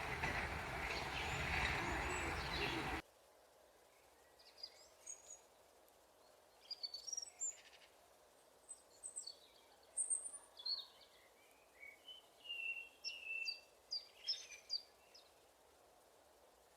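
A loud, even rushing noise cuts off suddenly about three seconds in. Then, over a quiet background, small birds give many short high chirps and twitters for about ten seconds.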